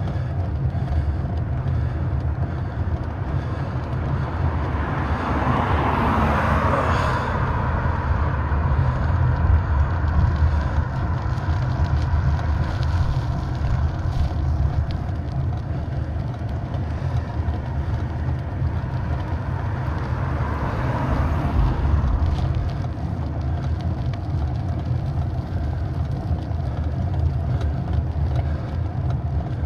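Bicycle riding over a rough road, heard through a handlebar-mounted camera: steady heavy rumble and wind on the microphone, with rattling and creaking from the handlebar fittings. Two vehicles pass, swelling and fading about six seconds in and again about twenty-one seconds in.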